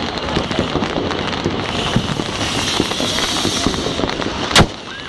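Fireworks and firecrackers going off all around: a dense, continuous crackle of many small pops, with one much louder sharp bang near the end.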